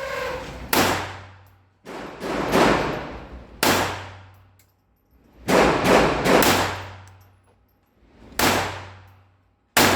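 Taurus TX22 .22 LR pistol firing about eight single shots at an uneven pace, roughly one a second. Each crack rings on and dies away over about a second.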